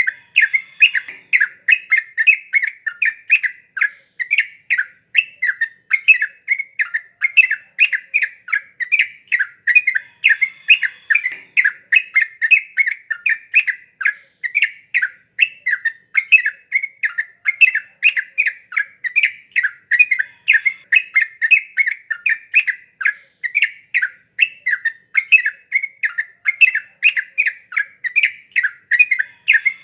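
Yellow-vented bulbul (trucukan) singing continuously: a fast, even run of short chattering notes, two or three a second, without a break.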